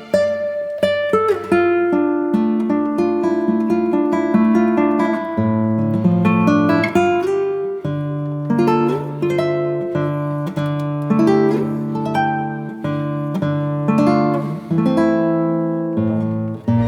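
Background music: acoustic guitar playing a run of plucked notes and chords, each note ringing out and fading.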